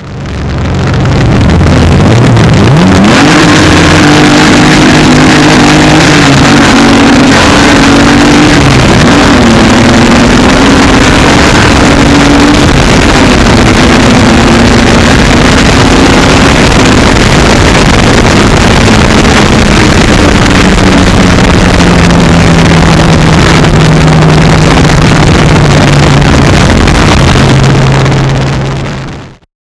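Twin-engine Alfasud drag car running hard under full throttle, very loud, its engine note climbing and dropping back several times as it goes up through the gears.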